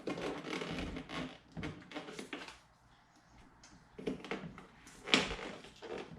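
Plastic door trim of a VW Passat being pried and handled as the switch is worked out of it: a stretch of scraping and rattling, then a series of sharp clicks and knocks, the loudest about five seconds in.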